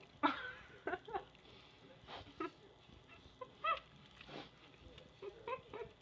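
A pet animal making a string of short, pitched calls, about nine in six seconds, some rising and falling in pitch.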